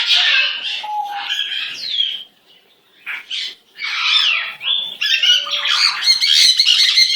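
A bird squawking and chattering in quick runs of calls, with a short pause about two seconds in and the busiest calling near the end.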